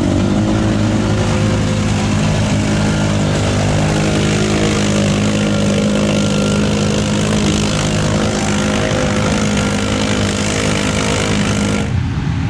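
Off-road vehicle engine running hard at a nearly steady pitch, with a loud rushing noise over it; the sound changes abruptly near the end.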